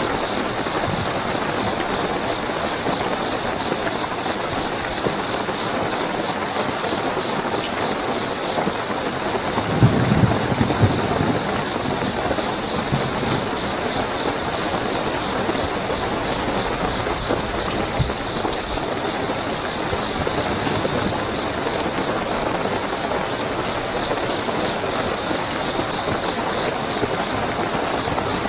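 Steady heavy rainfall with a continuous high cricket trill over it. About ten seconds in there is a brief low rumble, the loudest moment.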